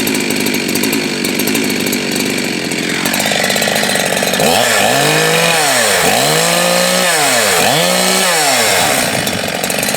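Two-stroke chainsaw running at high speed, dropping to a lower speed about three seconds in, then revved up and down about every second and a half before it cuts off at the end.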